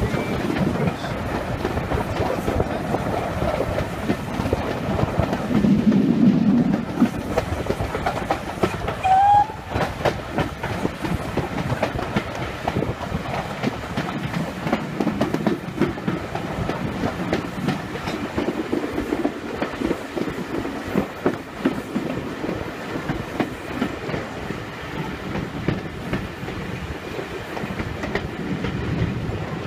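Passenger coaches of a steam train hauled by GWR Small Prairie tank engine 5542, heard from an open carriage window: steady running noise, with the wheels clattering rhythmically over the track.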